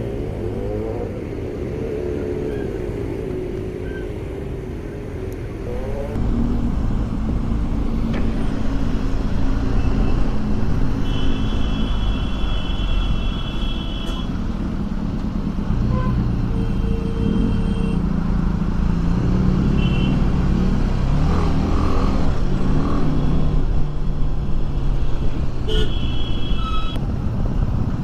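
Motorcycle riding in highway traffic: engine running with steady road and wind rumble, its pitch rising and falling in the first few seconds. Vehicle horns honk several times, the longest for about three seconds near the middle and another short one near the end.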